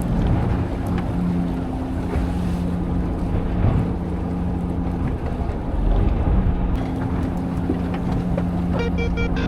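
Fishing boat's engine running steadily under way, with wind on the microphone and a wash of water noise. Music comes in near the end.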